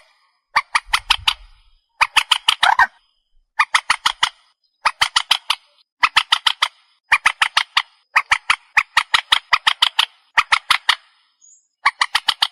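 Recorded call of the trích ré, a Vietnamese marsh bird, played as a lure for trapping. Loud, harsh phrases under a second long, each a rapid string of sharp notes at about ten a second, repeat over and over with short pauses between them.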